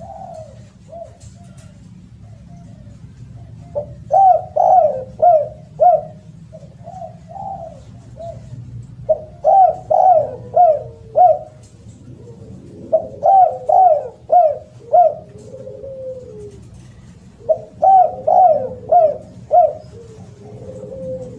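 Spotted dove (derkuku, tekukur) cooing loudly in its repeated song: four phrases, each a quick run of several coos that rise and fall in pitch, about four seconds apart.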